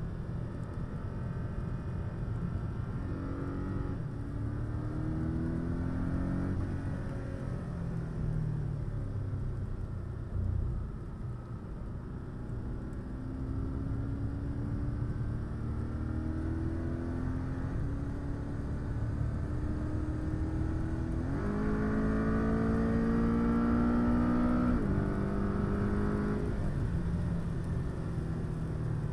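Cabin sound of a Porsche 718 Cayman S's turbocharged flat-four under acceleration, over steady low road and tyre rumble. The engine note climbs several times and is loudest about three-quarters in, where it rises sharply and then drops in pitch at an upshift.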